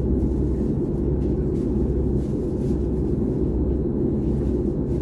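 Steady low rumble inside the passenger cabin of a Frecciarossa high-speed train rolling slowly, even in level throughout.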